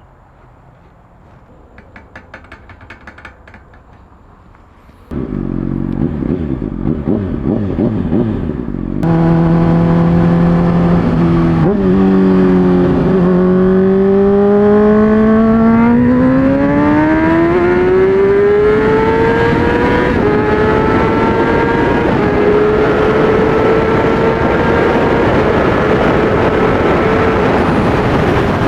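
Honda CBR600RR inline-four running through an MGP Growler exhaust. After a few quiet seconds a rough low running sound comes in about five seconds in. About nine seconds in, the loud exhaust note starts; it climbs steadily in pitch as the revs rise, then holds a high, steady note.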